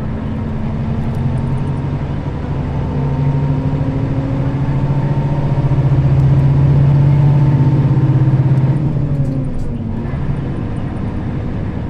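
Nissan Diesel KL-RA552RBN route bus's diesel engine and drivetrain heard from inside the cabin while driving. The engine note climbs slowly for several seconds, then drops about nine seconds in, as the bus shifts gear or eases off.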